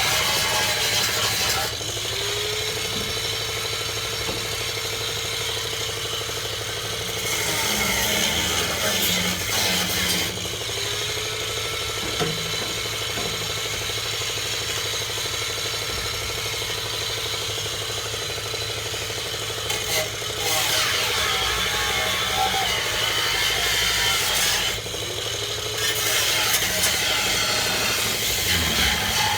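Power grinder cutting steel body and frame metal. The motor spins up with a rising whine, runs steadily and winds down three times, with harsh grinding noise from the wheel on metal in between.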